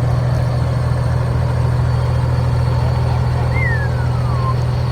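Peterbilt semi truck's diesel engine idling with a steady low drone. A short falling whistle sounds once, about three and a half seconds in.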